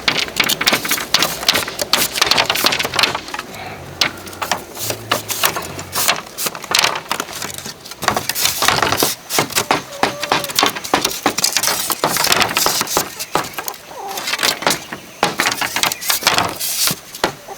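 Bamboo being worked by hand: a dense run of irregular sharp knocks, taps and cracks.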